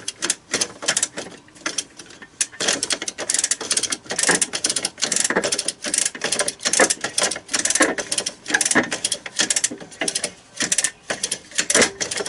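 Hand ratchet wrench clicking in quick, uneven runs as bolts are run in on the joint of a snowcat's rubber crawler track.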